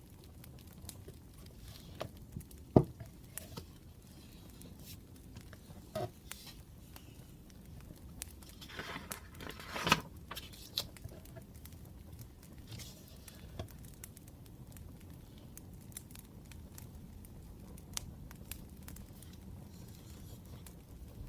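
Study-desk handling sounds: a sharp tap about three seconds in and a rustle of paper around nine to ten seconds in, over faint scattered crackles.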